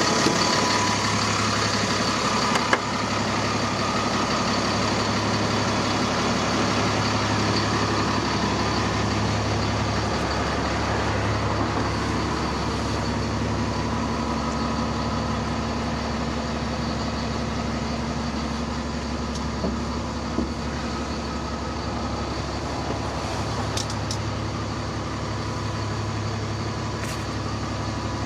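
DAF CF65 truck's diesel engine idling steadily, with a single light knock about three seconds in.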